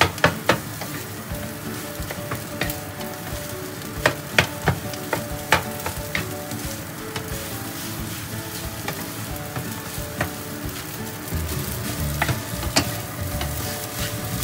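Egg and rice frying in a hot pan, sizzling steadily, while a spatula taps and scrapes against the pan as the egg is cut up and stirred into the rice. The taps come in clusters, most at the start and again about four seconds in.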